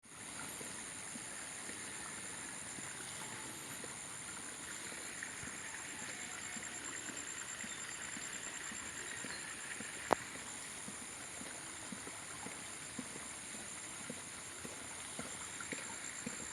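Rice-field ambience dominated by a steady, high-pitched insect chorus with a fast pulsing trill, over a bed of scattered small clicks and one sharp click about ten seconds in.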